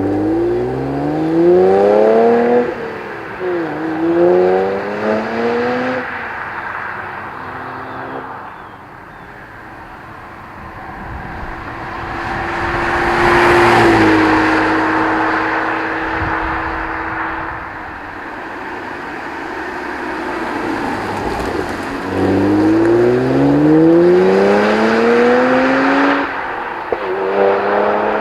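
BMW 135i twin-turbo inline-six through a Corsa Performance cat-back exhaust, accelerating hard: the engine note rises and drops back at each upshift near the start and again near the end. In the middle the car passes by, its steady note dropping in pitch as it goes past.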